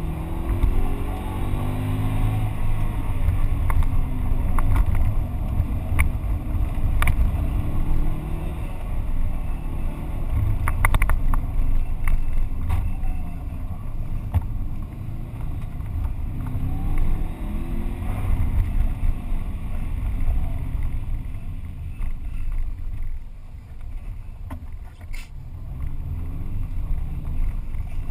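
Subaru Impreza GT's turbocharged flat-four engine heard from inside the cabin under hard acceleration, climbing in pitch through the gears again and again over a heavy rumble and hiss of tyres running through standing water. A few sharp clicks cut through, and near the end the engine eases off and goes quieter for a few seconds before pulling again.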